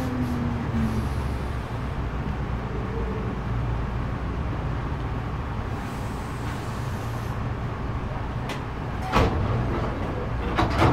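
Hankyu 3300 series electric train running, a steady rumble of wheels and running gear. A falling motor whine fades out about a second in, as the train eases off. A couple of sharp clicks or knocks come near the end.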